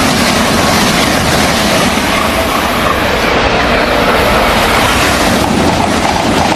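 Train noise: a loud, steady rush and rumble with no tune or voice in it.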